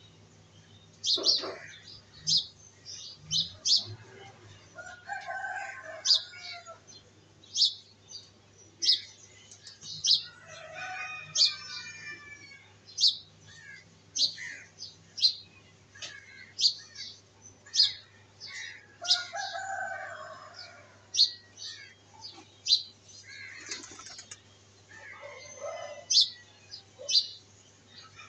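Birds chirping: a short, high chirp repeats about once a second, with a few longer, lower calls mixed in. A faint steady hum runs underneath.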